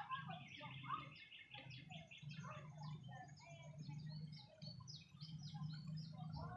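Many small birds chirping together in quick, short, high notes that overlap continuously, over a low steady hum.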